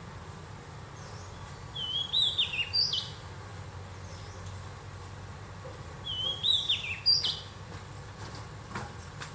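A songbird sings the same short, high, warbling phrase twice, about four seconds apart, over a steady low hum.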